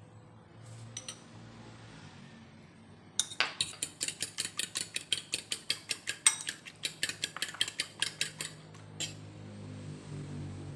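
A utensil beating rapidly against a mixing bowl, about five or six sharp clinks a second for some five seconds starting about three seconds in, with a few single clinks before and after.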